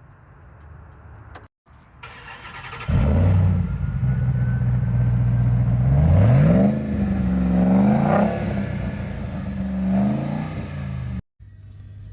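2023 Ram TRX's supercharged 6.2-litre Hemi V8 running at a low rumble, then getting loud about three seconds in and revved several times, its pitch rising and falling. Near the end it drops back to a quieter steady rumble.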